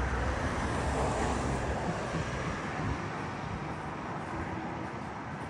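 Road traffic: a vehicle passing on the street, its low rumble fading away about three seconds in.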